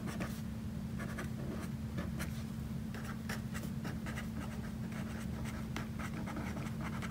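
Pen writing by hand on lined notebook paper: a run of short scratchy strokes, over a steady low hum.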